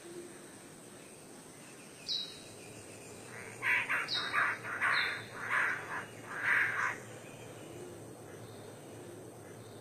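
A bird calling: a few short, high, falling whistled notes, then from about three and a half seconds in a run of about eight harsh, raspy calls lasting some three seconds.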